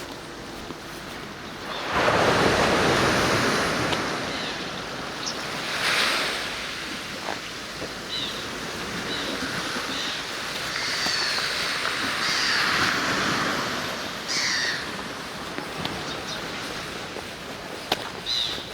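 Sea waves breaking and washing on the shore. The surf swells up loudest about two seconds in and surges again several times after.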